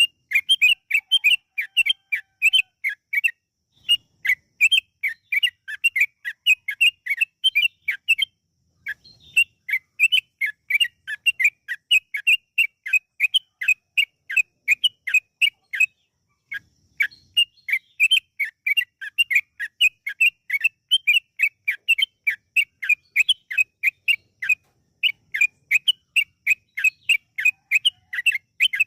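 Yellow-vented bulbul (trucukan) singing long runs of short, bubbly notes, about three or four a second, broken by a few brief pauses: the long 'ropel' song used as a lure call.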